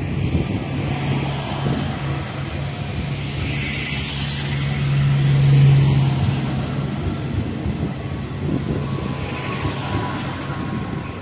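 Arriva diesel multiple unit passing close and pulling away from the platform. Its steady low engine note swells to its loudest about five to six seconds in, then eases, with a faint higher whine near the end.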